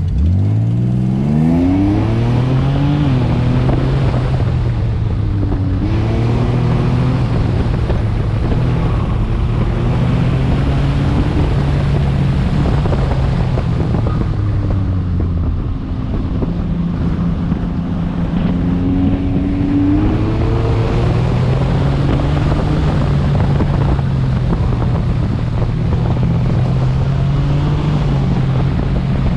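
Car engine launching hard from the start: a steep rise in revs in the first two seconds, then revving up and falling back again and again as the driver accelerates and brakes through an autocross course.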